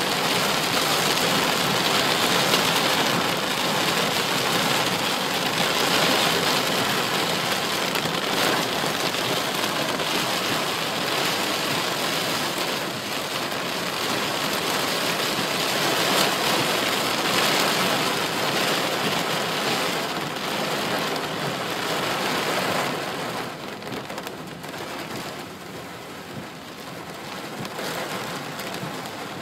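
Heavy downpour falling on a car's roof and windshield, heard from inside the car as a dense, steady hiss that eases somewhat about 23 seconds in.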